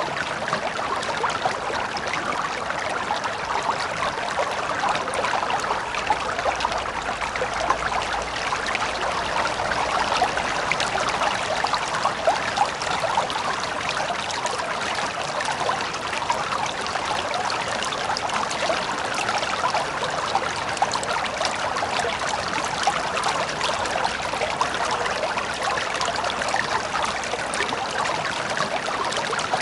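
River water flowing steadily over stones, a continuous rushing and babbling with fine splashes.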